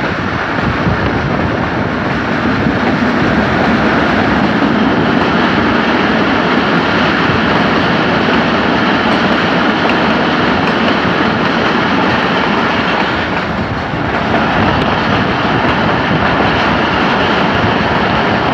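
Passenger train running at speed through a rock tunnel, heard from a coach window: a steady, loud running noise of wheels on the rails.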